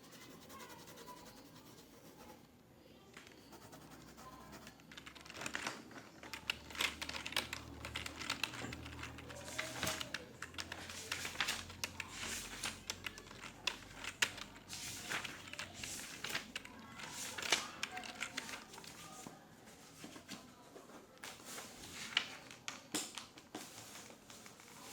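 Office ambience: irregular computer-keyboard typing and clicks, thickest from about five seconds in, over a low steady room hum with faint voices in the background.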